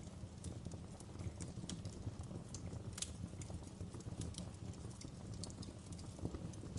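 Wood fire crackling in a fireplace: scattered sharp pops and snaps, a louder one about three seconds in, over a steady low rumble.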